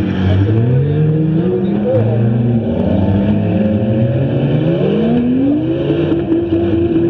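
Several front-wheel-drive stock cars racing on a dirt track, their engines revving up and down over one another. Near the end one engine climbs and then holds steady at high revs.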